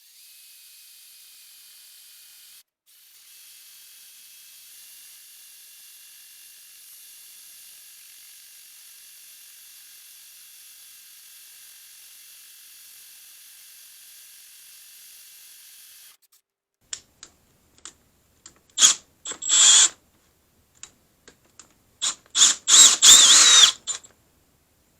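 A faint steady high hiss, then from about two-thirds through a run of sharp metallic clicks and scrapes that grow loudest near the end: metal tool parts being handled and fitted into a steel plate.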